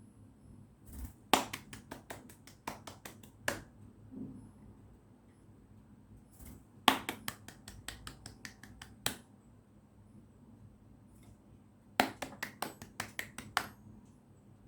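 Hand clapping in three quick bouts, each about two seconds of sharp claps at roughly four to five a second, with short pauses between them.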